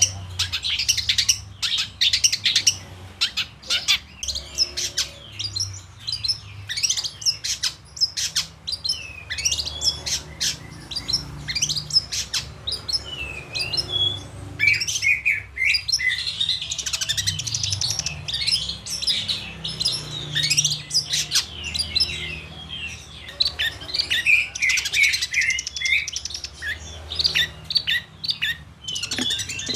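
Several songbirds chirping and singing in quick, varied, overlapping phrases, with many sharp clicks among them.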